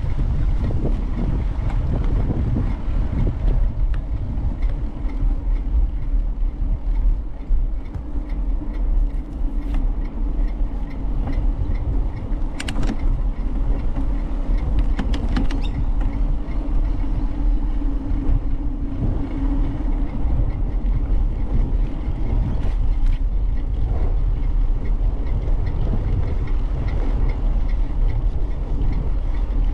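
Wind rumbling on the microphone of a moving bicycle's camera, a steady low rumble throughout. A faint steady hum sits underneath for about ten seconds in the middle, and a few brief clicks come about halfway through.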